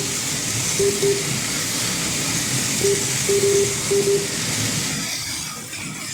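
HO-scale AFX slot-car semi trucks racing around the track, their small motors and pickups making a steady high whirring hiss. A string of short electronic beeps, typical of a lap-timing system counting laps, comes in groups through the first two-thirds.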